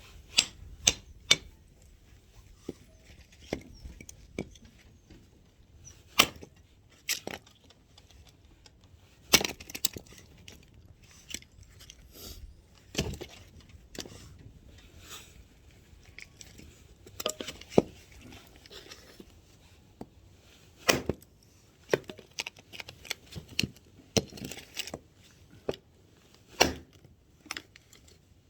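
Axe striking and splitting firewood: sharp wooden knocks at irregular intervals, about one every second or two.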